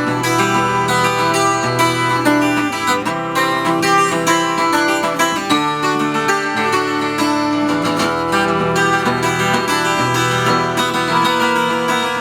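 Acoustic guitar music, plucked and strummed: an instrumental passage of a song.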